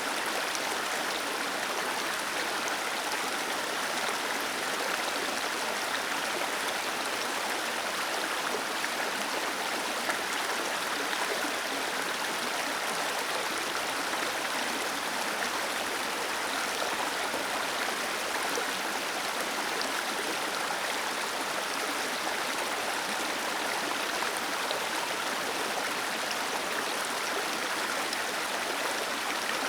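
Small waterfall cascading over rocks, a steady rushing of water with no pauses or changes.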